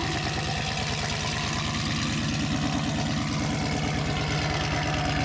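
2016 Dodge Charger Scat Pack's 392 (6.4-litre) HEMI V8 idling steadily through CORSA long-tube headers and a full cat-back exhaust, loud, with an even pulse.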